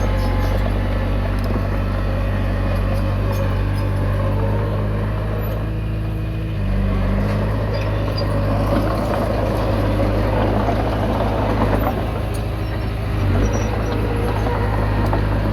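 Komatsu D20P bulldozer's diesel engine running steadily, its note stepping up in pitch and loudness about seven seconds in.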